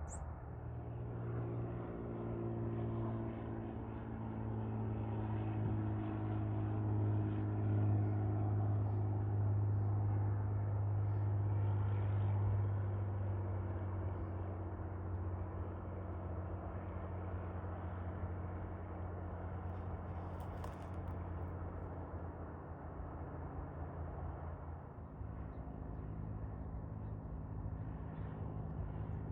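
A steady low engine hum made of several even tones, swelling for a few seconds near the middle and then easing off.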